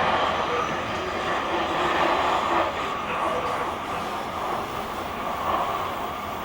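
Running noise of a JR Kyushu 883 series limited express electric train heard from the deck of a motor car: a steady rumble of wheels on rail with a faint steady hum from the running gear.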